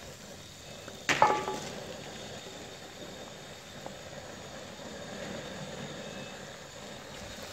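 Raw okra tipped into a pot of hot fried masala: a sharp clank with a brief ring about a second in, then steady sizzling as the okra meets the hot oil.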